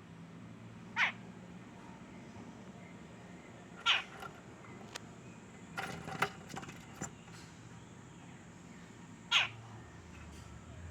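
A bird on a balcony giving three short, sharply falling calls a few seconds apart, with a few light clicks in between.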